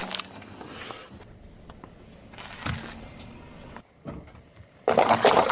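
A car tyre rolling over and crushing an object: a faint crackle about two and a half seconds in, then a loud crunch near the end.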